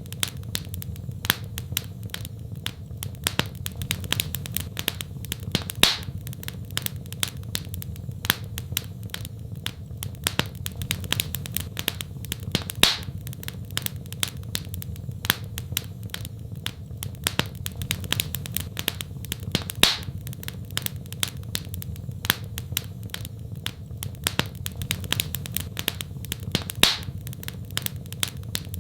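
Fireplace fire crackling steadily, with dense small snaps and a louder pop about every seven seconds over a steady low rumble.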